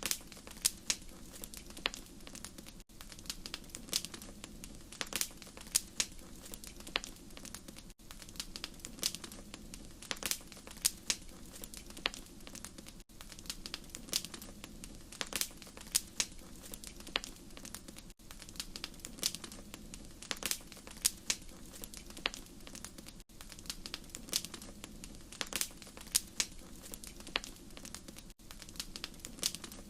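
Wood fire crackling: irregular sharp pops and snaps over a steady low hum. Brief dropouts about every five seconds, where the recording appears to loop.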